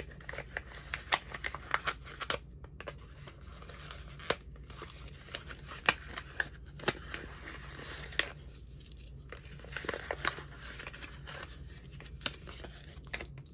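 Packaging being handled and opened by hand: crinkling and tearing with many sharp clicks and snaps, pausing now and then.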